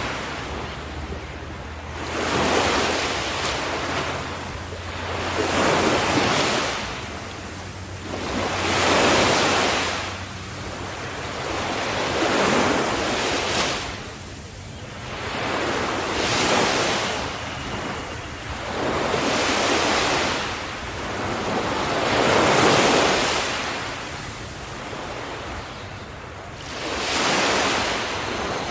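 Ocean waves washing onto the shore, each one swelling into a hissing rush and fading, about every three to four seconds.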